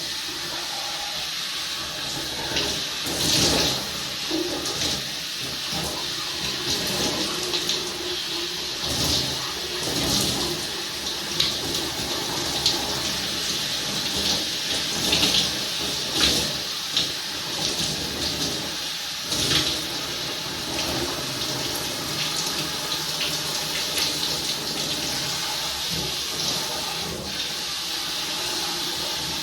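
Running water pouring and splashing steadily, with irregular louder splashes every second or so as hair is washed under it.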